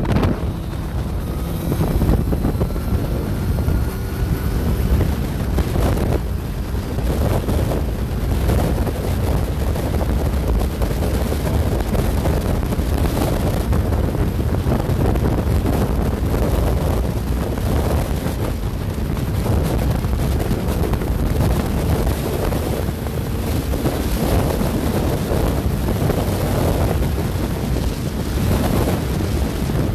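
Wind rushing over the microphone of a motorcycle riding at highway speed, with the engine running steadily underneath.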